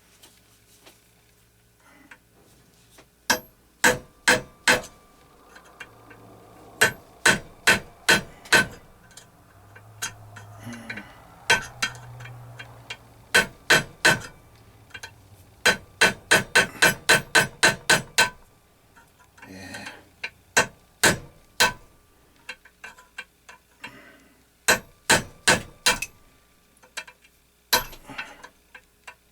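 A small hammer, about 8 ounces, tapping on a stuck metal part of a 1x42 belt grinder. The taps are light and sharp and come in quick runs of several, with short pauses between. Each blow is kept light because he cannot swing hard.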